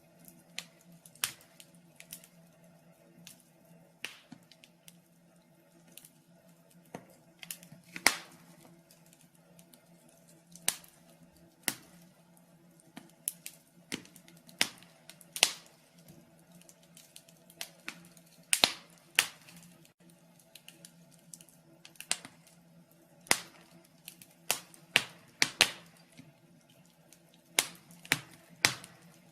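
Wood fire in a fireplace crackling, with irregular sharp pops and snaps, sometimes several in quick succession, over a faint steady low hum.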